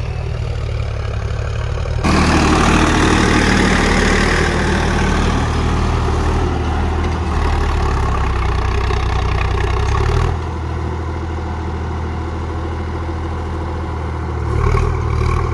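Sonalika tractor's diesel engine running steadily. It gets louder about two seconds in, drops back about ten seconds in, and rises again near the end.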